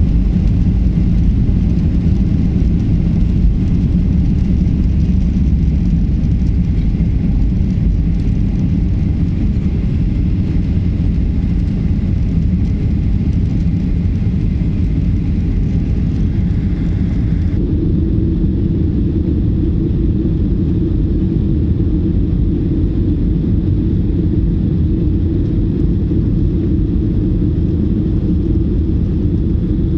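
Jet airliner engines during takeoff, a loud steady rumble. About seventeen seconds in the sound changes abruptly: the higher hiss drops away and a lower hum steps up.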